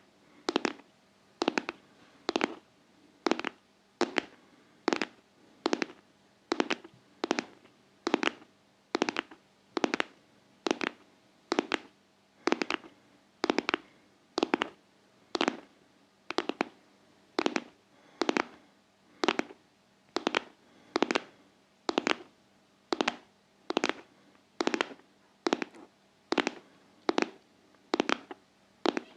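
ASMR heart-tapping: steady, even taps, a little more than one a second, each sharp and quickly fading.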